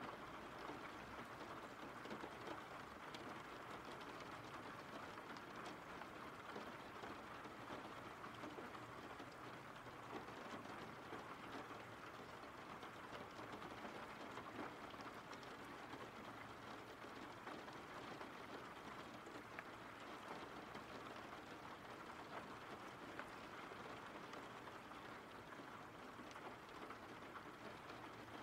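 Steady rain falling, a faint even patter of many small drops.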